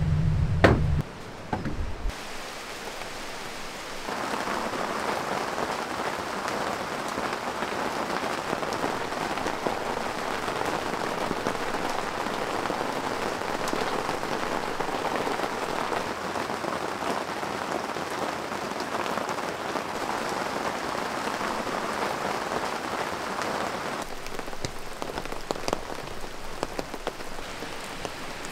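Rain falling steadily on an air tent's fabric roof and clear plastic skylight panels, heard from inside, growing softer about four seconds before the end. A low hum stops about a second in.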